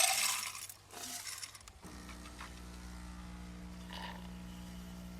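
Light clinking and rattling for about two seconds, then a steady low hum.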